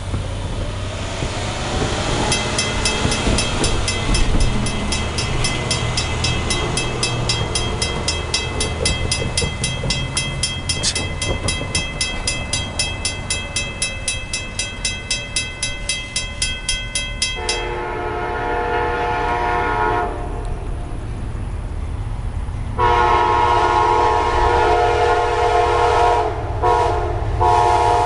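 Railroad crossing bell ringing in a fast, even rhythm over the rumble of an approaching Amtrak passenger train. The locomotive's horn then sounds a chord in a shorter blast and a long one, its pitch dropping near the end as the train passes.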